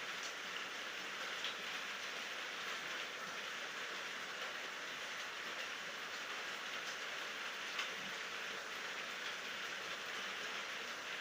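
Steady rain falling: an even hiss with a few sharper drop ticks and no thunder.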